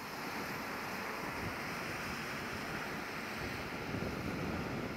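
Steady rushing outdoor ambience, an even noise with a fluctuating low rumble, typical of wind and water along a waterfront.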